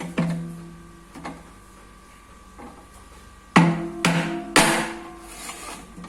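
Irregular metal strikes on a washing machine's drum assembly, about five blows of uneven spacing, each followed by a pitched metallic ring. The loudest three come close together about three and a half seconds in.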